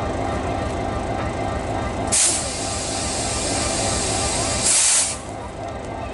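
Diesel locomotive standing with a steady low rumble, while a loud hiss of compressed air comes on suddenly about two seconds in and cuts off about three seconds later, loudest at its start and end: air being let out of the train's air system.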